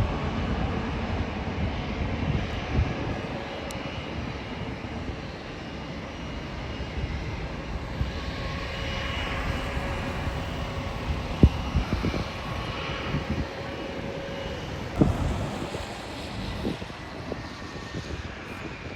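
Jet airliner engines running with a steady rush of noise and faint whining tones that drift slightly in pitch. A few short low thumps stand out, the loudest about two-thirds of the way through.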